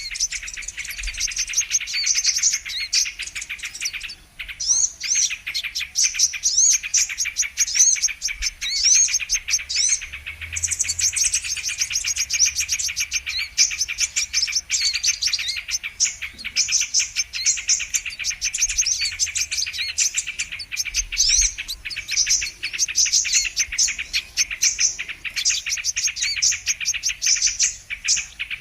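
Brown-throated sunbirds (kolibri kelapa) singing: a dense, unbroken stream of rapid high chirps and trills, briefly thinning a little after four seconds.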